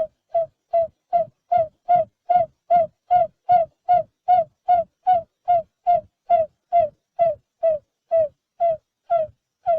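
Barred buttonquail calling: a long, even series of low hoots, about two and a half a second, slowing slightly near the end.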